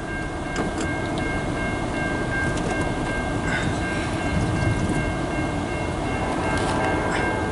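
Canadian National freight train approaching a grade crossing: a steady rumble, with a few steady high tones held throughout.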